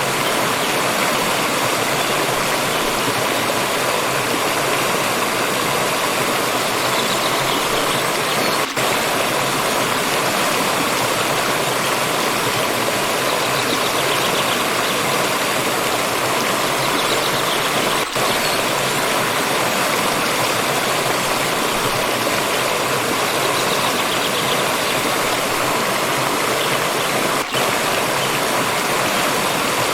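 A fast-flowing stream rushing steadily, with a very brief drop in level about every nine seconds.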